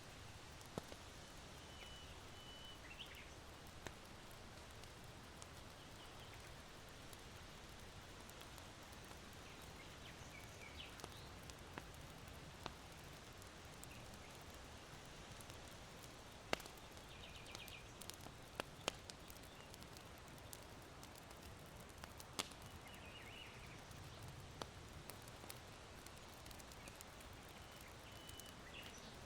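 Charcoal in an irori hearth crackling faintly, with a handful of sharp pops spread through it. Small birds chirp briefly now and then, once in a quick trill, over a low steady wind noise.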